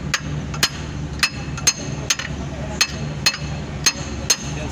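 Hammer striking metal, about nine sharp ringing blows at roughly two a second, over a steady low hum.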